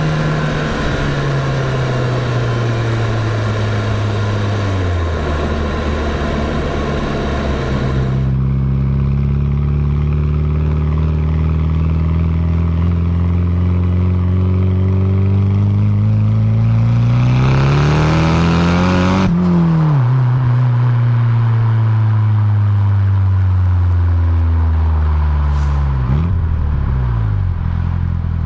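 Nissan Silvia S14a's turbocharged SR20DET four-cylinder engine and exhaust under way. The engine note falls and steps down, then climbs steadily for about ten seconds to a peak and drops sharply off throttle. Near the end it dips and rises quickly once more.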